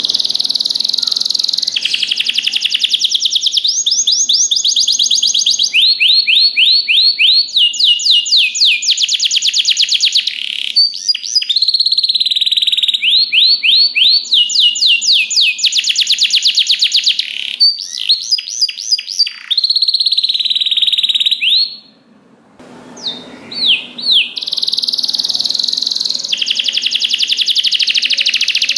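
Domestic canary singing a long, loud, high-pitched song made of rapid trills, one rolling phrase after another, each a quick run of repeated notes. The song breaks off briefly a little over two-thirds of the way through, then starts again.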